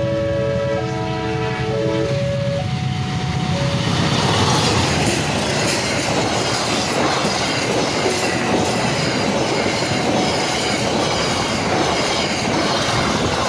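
Passenger train passing close by a level crossing: a loud, steady rumble and rattle of the coaches' wheels on the rails, with clicking over the rail joints. In the first two seconds, before the train's noise swamps it, the crossing's warning alarm sounds in repeated alternating tones.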